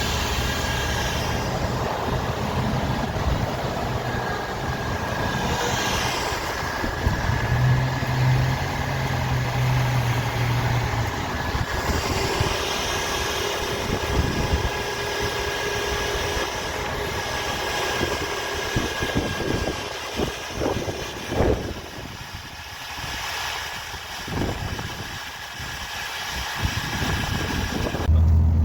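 Truck engine and road noise heard while driving, a continuous rumble that dips and swells in the second half and turns louder and heavier near the end.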